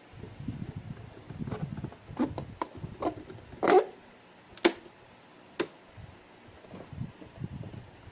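Hands handling a dehumidifier and its packaging: low rustling and scraping, with a run of sharp plastic-sounding knocks and clicks, the loudest a little before the middle and two more about a second apart after it.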